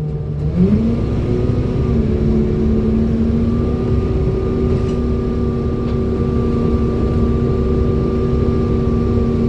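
Single-decker bus running on the road, with the vacuum-cleaner-like 'hoover' whine it is known for. The tone rises about half a second in, then holds steady, with a fainter high whine above it.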